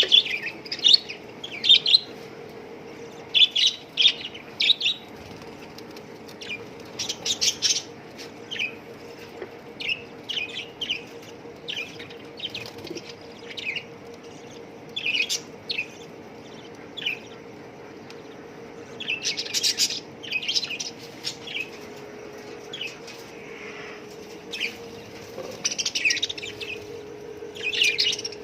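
A flock of caged budgerigars chirping and twittering in short, irregular calls, with a faint steady hum underneath.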